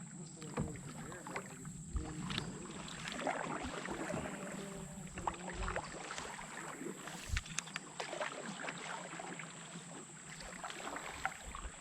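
Canoe being paddled: paddle strokes in the water with scattered small splashes and knocks, over a thin steady high tone.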